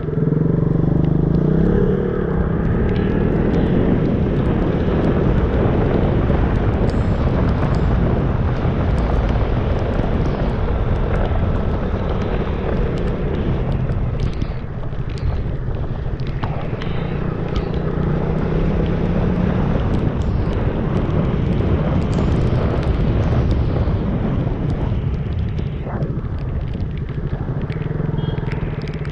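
KTM motorcycle engine running steadily while riding, its pitch drifting up and down with speed, mixed with heavy wind buffeting on the microphone.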